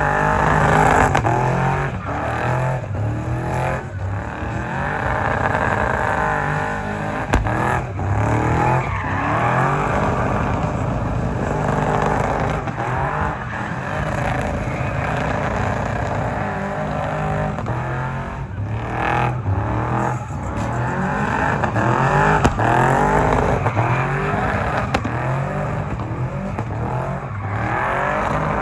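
Car engines revving hard over and over, the pitch sweeping up and down every second or two.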